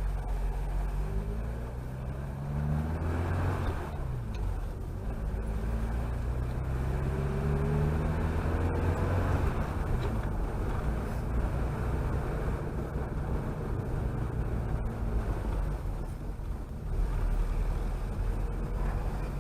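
Chevrolet Chevette driving, its engine note climbing several times as it accelerates through the gears and dropping between shifts, over steady road noise.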